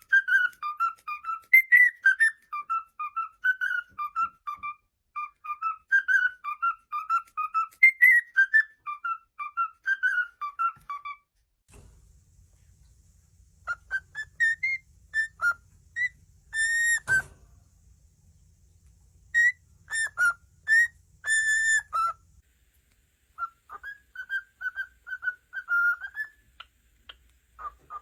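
A pet parrot whistling in quick runs of short notes for about eleven seconds. After a brief pause come longer rising and falling whistles, then another quick run of notes.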